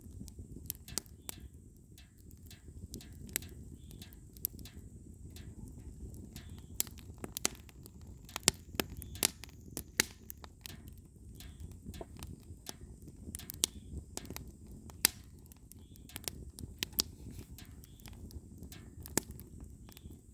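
Firewood burning: the logs crackle with irregular sharp pops and several louder snaps, over a low steady rumble.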